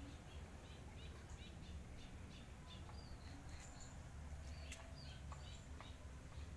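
Faint chirping of small birds: many short, high chirps repeated throughout, over a low steady rumble.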